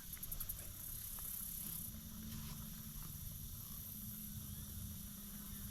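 Faint outdoor marsh ambience before dawn: insects chirping high and thin, with a few quick pulsed chirps near the start, over a low steady hum.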